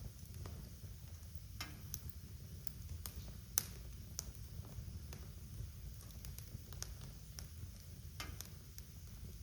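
Wood fire in a fireplace crackling: scattered sharp pops and snaps over a low steady rumble, the loudest pop about three and a half seconds in.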